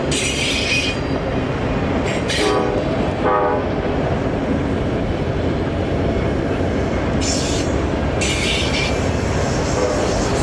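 Freight train rolling past with a steady rumble of cars on the rails and repeated bursts of high wheel-flange squeal. Two short horn notes sound about two and a half and three and a half seconds in.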